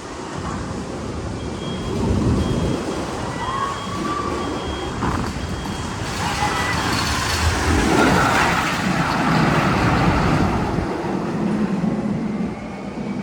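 One of the Magnum XL 200 roller coaster's tunnel sound effects: a heavy rumbling, vehicle-like noise that swells to its loudest a little past the middle. A few short, high, steady beeps sound about a second and a half to four seconds in.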